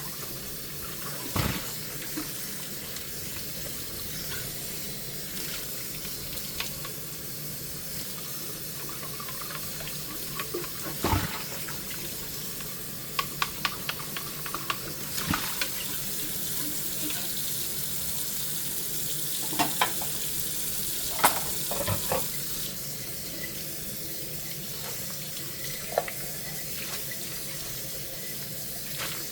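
Tap water running steadily into a kitchen sink during hand dishwashing, with scattered clinks and knocks of dishes being handled, including a quick run of light clatters in the middle.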